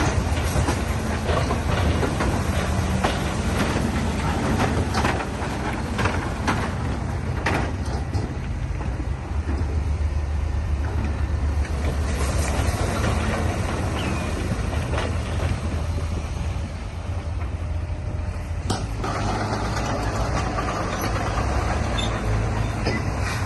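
Heavy diesel earthmoving machinery running steadily under load, with scattered metallic clanks and knocks.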